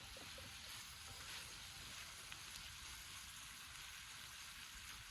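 Meat frying over a campfire: a faint, steady sizzle with a few small crackles.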